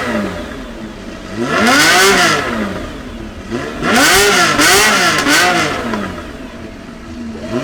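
A high-performance car engine revved repeatedly, its pitch climbing and falling with each throttle blip: a single rev, then three quick revs in a row, then another rev starting near the end.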